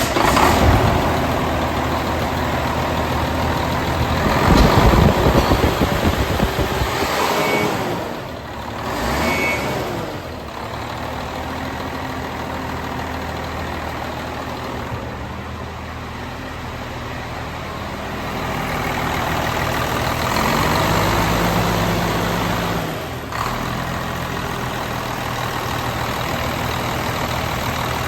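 Cummins M11 Celect+ 11-litre inline-six diesel truck engine running at idle, picking up in revs about four seconds in and again held higher around twenty seconds in before dropping sharply back to idle.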